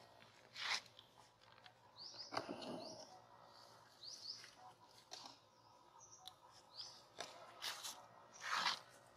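Small birds repeating short, high, rising chirps in outdoor ambience, with a few brief rustling noises, the loudest near the end.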